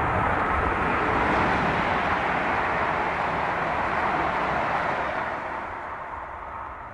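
Electric multiple-unit passenger train passing through at speed on the far line: steady rush of wheels on rails, fading away over the last couple of seconds.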